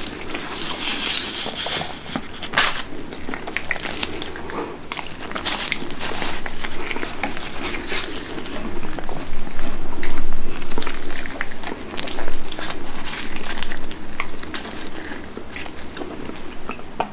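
Close-miked eating of napa cabbage kimchi: crunching and wet chewing with irregular crackles and squelches, loudest about ten seconds in. Near the start there is a brief wet rustling as the kimchi leaves are pulled apart by gloved hands.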